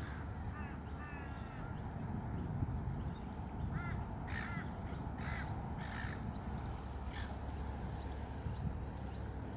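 Gulls giving a run of short, harsh calls, several in quick succession about four to six seconds in, over a steady low rumble.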